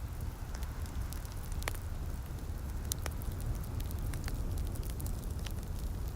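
Wood fire crackling in a fireplace, with sharp pops scattered irregularly through it over a steady low rumble, and a soft hiss of light rain behind.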